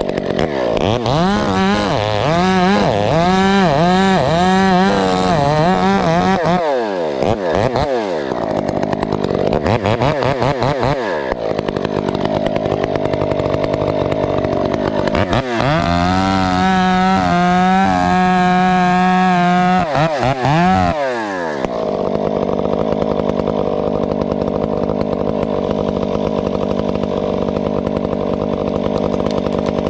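Husqvarna 372XP two-stroke chainsaw with a ported muffler cutting at full throttle, its engine speed wavering under load and easing off twice, then dropping to idle about two-thirds of the way through.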